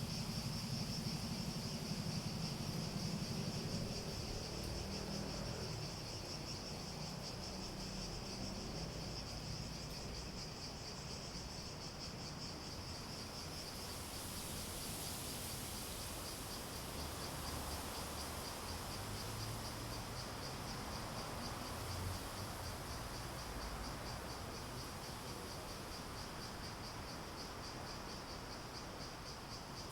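Cicadas buzzing in a steady, rapidly pulsing chorus, with a second, higher-pitched buzz joining about halfway through. A low rumble underlies the first few seconds.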